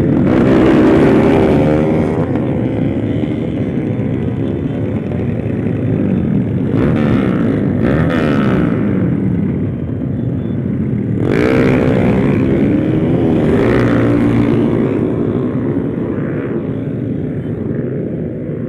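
Small motorcycle engine being ridden hard, its pitch rising and falling again and again through revs and gear changes. The engine has just been rebuilt.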